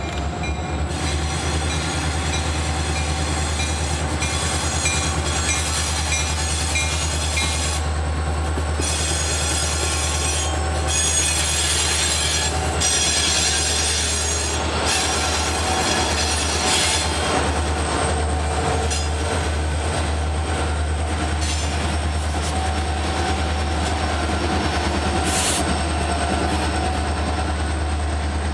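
Norfolk Southern freight train rolling past at close range: the diesel locomotives' engines rumble by, then loaded hopper cars follow with steady wheel noise, high wheel squeal on the curve and some clicking over rail joints.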